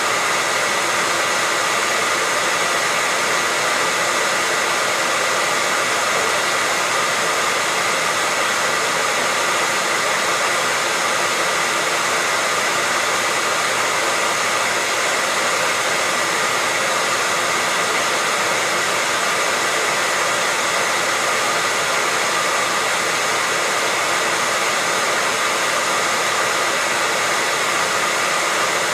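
Hair dryer running steadily at one speed: an even rush of blown air with a steady high motor whine in it.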